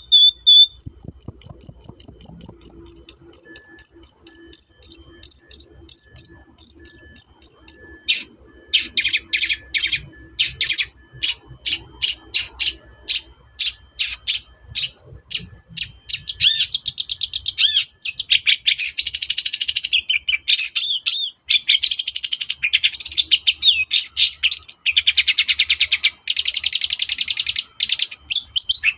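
Long-tailed shrike (cendet) singing in full, varied song: a fast high trill for about the first eight seconds, then a run of sharp, quickly repeated notes, then dense chattering phrases from about sixteen seconds in.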